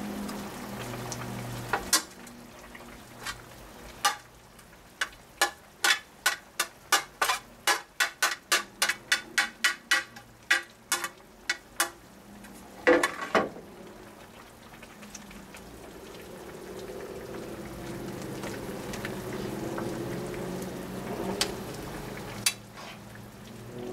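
Kitchen cooking sounds: food frying with a steady hiss, while a utensil knocks about twenty times in a quick, even run of about three a second in the middle, followed by two louder knocks.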